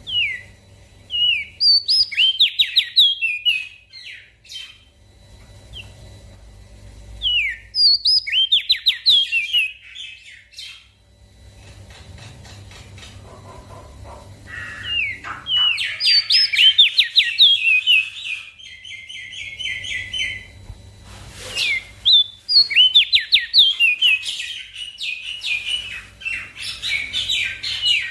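Small songbird singing in bursts of fast, high chirping phrases, with pauses of a few seconds between the bursts; the longest burst runs from about 15 to 20 seconds in.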